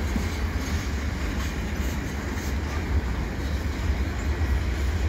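Freight train's flatcars rolling slowly past at close range: a steady low rumble of wheels on rail with faint occasional clicks.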